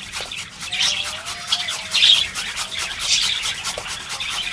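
Fresh carrot being crushed for bird soft food: quick scraping strokes with louder swells about once a second.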